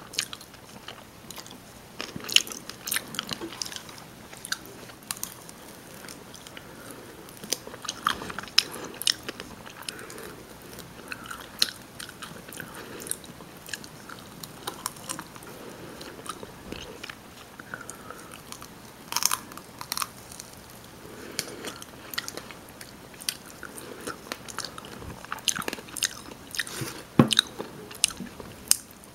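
Close-miked chewing and biting of rotisserie chicken: irregular wet mouth clicks with occasional crunches, a few louder bites near the middle and near the end.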